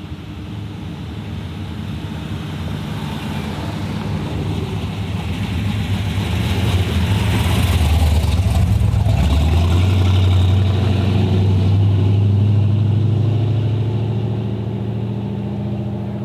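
A car's engine running at low revs as the car approaches and drives past. It grows louder to a peak about halfway through, then fades, and the engine note steps up in pitch about nine seconds in.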